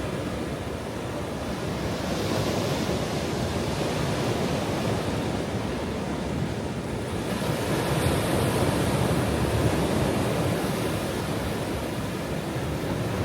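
Ocean waves breaking and washing on a shore, a continuous rushing with slow swells, fuller about two seconds in and again past the middle.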